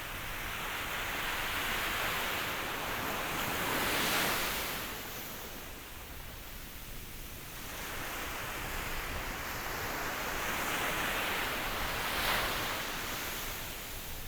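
Ocean waves washing in: a steady surf hiss that swells twice, cresting about 4 seconds and 12 seconds in, then ebbs.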